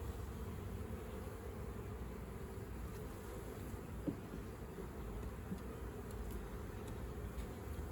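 Honeybees buzzing in a steady hum, with a single short tick about four seconds in.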